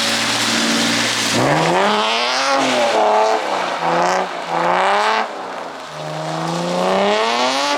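Drift car's engine holding a steady note, then revving up and down several times as the car is thrown through the wet track, over a hiss of rain and wet tyres.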